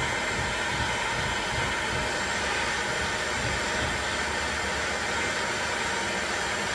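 Electric heat gun running steadily, its fan blowing a constant rushing hiss, used to heat a Mark 1 Mini suspension trumpet so the seized rubber cone can be freed.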